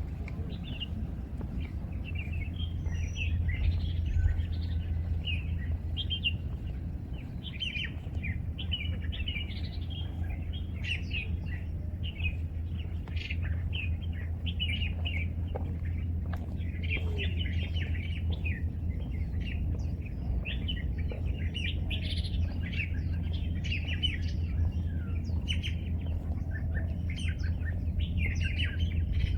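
Many small birds chirping and twittering continuously in overlapping short calls, over a steady low hum.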